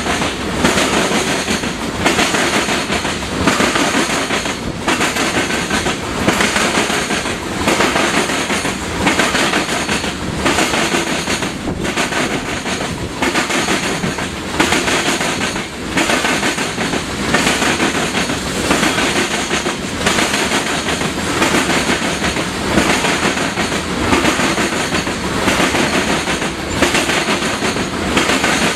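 Railroad cars rolling steadily past with a regular clickety-clack of the wheels over the rail joints, a little under one beat a second.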